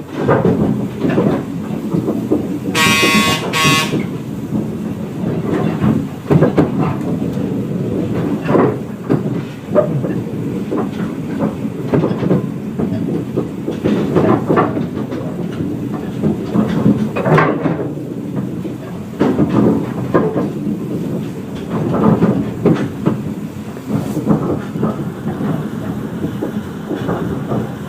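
Narrow-gauge heritage train running, its wheels clattering and knocking over the rails. About three seconds in, the train sounds a short two-part toot.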